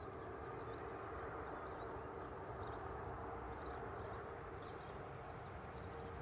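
Faint, steady drone of a distant engine, with small birds chirping now and then.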